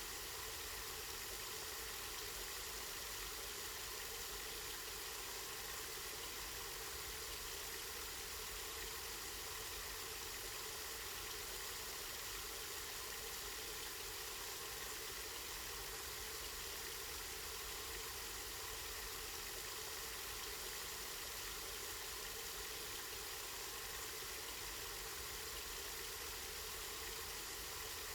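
Spring water running steadily, an even rushing hiss that does not change.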